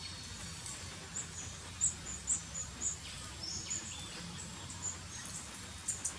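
Small birds giving short, very high-pitched chirps, several in quick succession in the first half and a few scattered ones later, over a steady low outdoor hiss.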